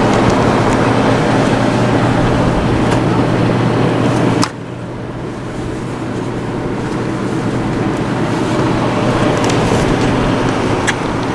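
Steady outdoor rumble of road traffic with a low hum; it drops suddenly about four and a half seconds in, then slowly builds again.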